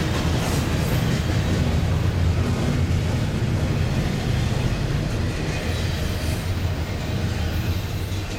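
Double-stack intermodal well cars rolling past on the rails with a steady low rumble, which eases off near the end as the last car goes by.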